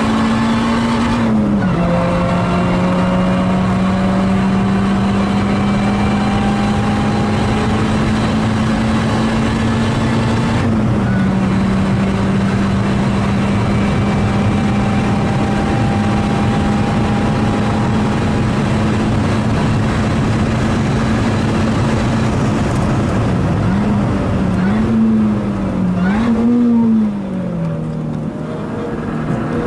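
Lotus race car's engine heard from inside the cabin under hard acceleration, with two upshifts about a second in and about eleven seconds in, the note holding steady between them. Near the end the engine note rises and falls several times in quick succession as the driver brakes and downshifts with throttle blips, then it climbs again as he accelerates out.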